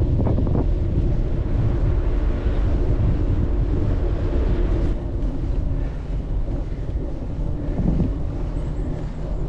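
Wind rushing over the microphone on a moving bicycle, a steady low noise that eases a little about halfway through.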